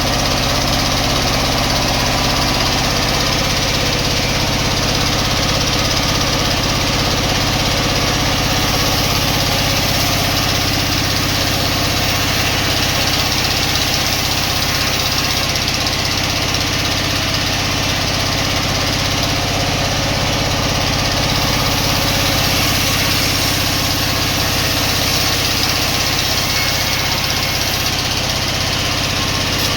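Sawmill machinery running with a steady, unbroken drone.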